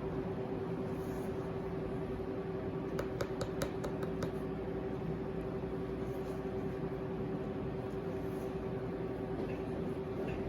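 Steady machine hum with one constant tone, and a quick run of light clicks about three seconds in.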